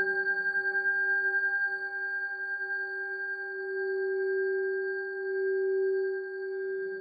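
Singing bowl tuned to G ringing on after a strike: a steady low tone with fainter higher overtones, pulsing and wavering in loudness and swelling again about halfway through.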